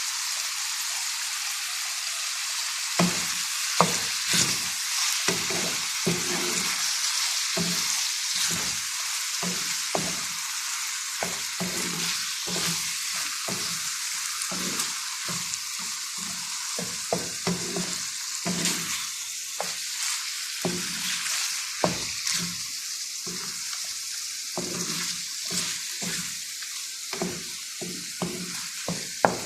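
Chicken pieces sizzling in a pan, a steady hiss. From about three seconds in, a spoon or spatula repeatedly scrapes and knocks against the pan as the chicken is stirred.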